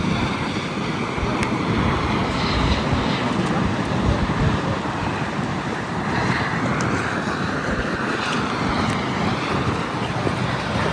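Wind buffeting the microphone: a steady rushing noise with uneven low rumbles, and no single loud event standing out.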